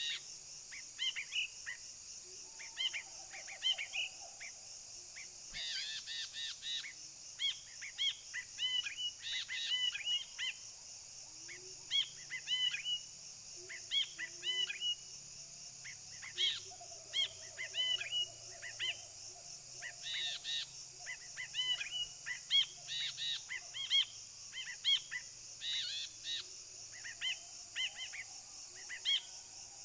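Brinji (bulbuls) calling in quick clusters of short chirps, again and again. Behind them runs a steady high-pitched hiss, and a few fainter low notes sound now and then.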